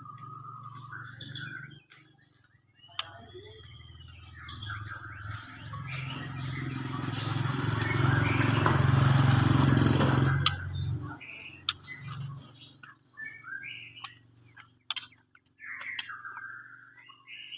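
Female white-rumped shama giving short chirps and sharp ticking call notes. A louder steady rumble swells from about five seconds in and stops near eleven seconds.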